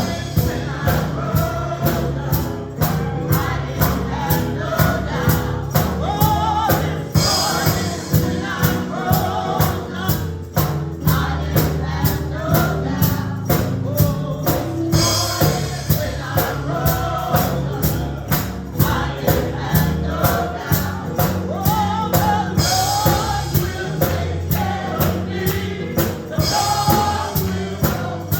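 Gospel choir singing with a band, over a steady beat of tambourine and drums and a sustained bass line.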